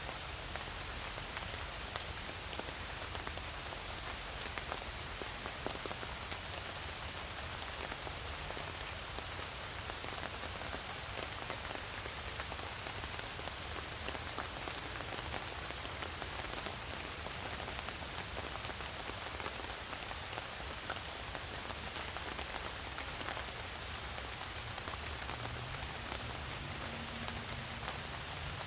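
Steady rain falling, an even hiss with many scattered tapping drops.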